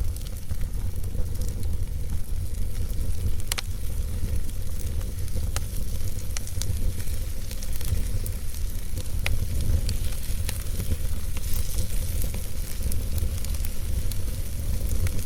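Logs burning in a fireplace: a steady low rumble of the fire with scattered sharp crackles and pops, a few of them louder snaps.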